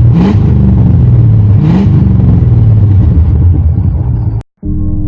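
Ford F-250 exhaust with the muffler deleted: the engine runs loud and is revved twice, about a second and a half apart. About four and a half seconds in it cuts off abruptly and ambient music begins.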